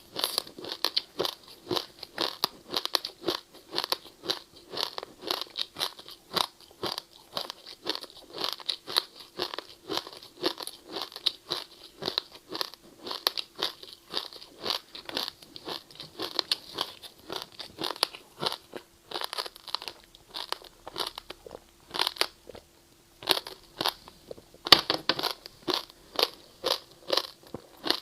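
Ice being crunched and chewed close to the microphone: a rapid, continuous run of sharp crunches, several a second, with a brief lull a little after two-thirds of the way through.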